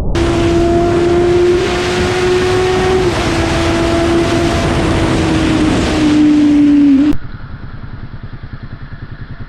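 Motorcycle riding at speed: a loud, steady engine tone over rushing wind noise, its pitch stepping down slightly a few times. About seven seconds in it cuts off suddenly to a quieter motorcycle engine running with a fast low pulsing.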